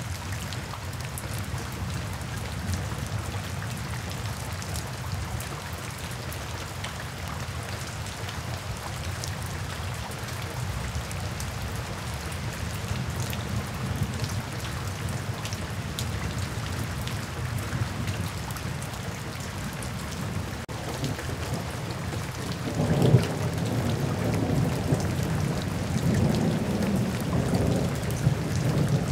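Steady rain falling and splashing on wet pavement, over a low background rumble. About three-quarters of the way through, a louder, deeper roll of thunder swells up and keeps rumbling.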